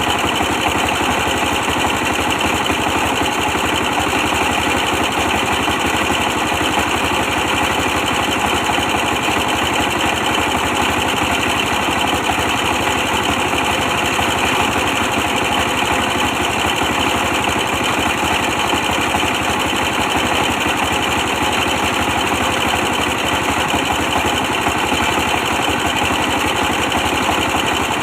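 Old 24 hp diesel engine running steadily, powering a brick-press machine, with a fast, even pulse to its sound.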